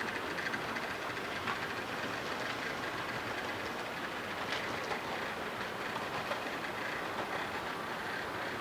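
Model train rolling along the track, a steady running noise with a few faint clicks.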